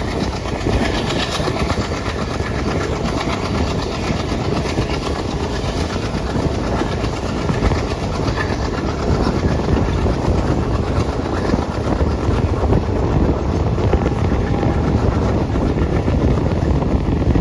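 Indian Railways Alco WDG-3A diesel-electric locomotive under way: its 16-cylinder ALCO 251 diesel engine running, with wheels clattering over rail joints. The sound is steady and gets a little louder in the second half.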